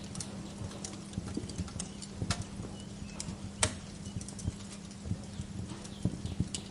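Wood fire in a fireplace crackling, with irregular sharp pops, the loudest a little past halfway, over a steady low hum.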